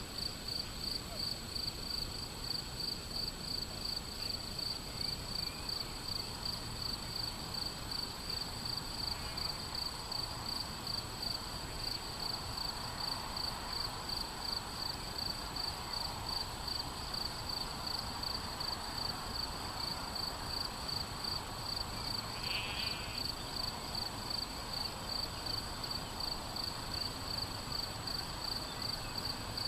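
Crickets chirping in a steady, even rhythm of about two to three chirps a second, over faint outdoor background noise.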